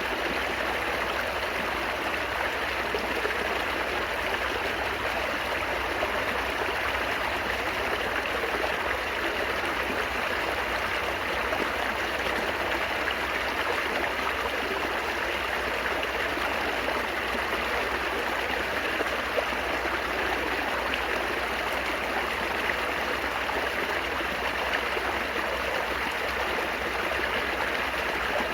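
Steady babbling of flowing water in a small stream, an even trickling and gurgling without breaks.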